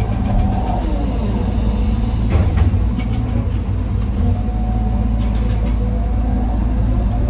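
Heavy diesel engine of an excavator running steadily while loading andesite rock into a dump truck, with short bursts of rattling about two and a half seconds in and again a little after five seconds.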